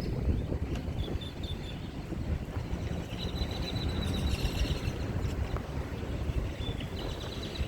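Outdoor ambience: a steady low rumble with high-pitched chirping calls coming and going, the longest from about three to five seconds in.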